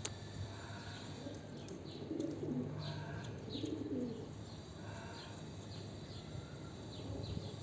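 Homing pigeons cooing repeatedly, with short high chirps among the coos.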